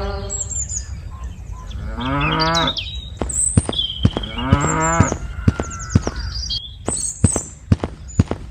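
Cattle mooing twice, each call a low, drawn-out low, with birds chirping throughout. From about halfway on there is a run of sharp clicks.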